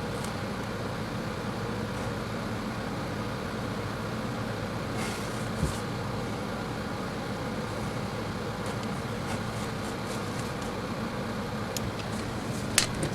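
A steady mechanical hum, with a couple of faint clicks about five seconds in and a run of sharp light clicks starting near the end.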